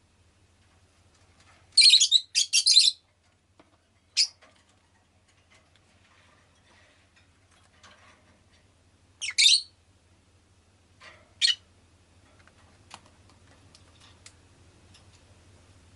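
Rosy-faced lovebird giving loud, shrill chirps in short bursts: three in quick succession about two seconds in, then single calls spread through the middle, with a few faint clicks near the end.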